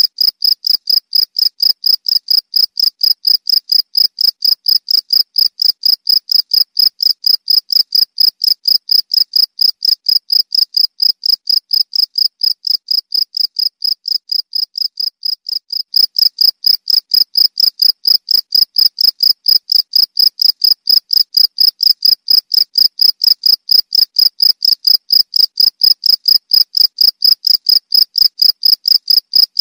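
Cricket chirping steadily, a loud high-pitched pulsed chirp repeating about four times a second, a little softer for a few seconds around the middle.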